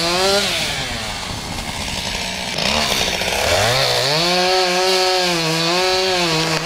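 Chainsaw engine running at high revs, dropping back about half a second in, then revving up again about four seconds in and holding at speed.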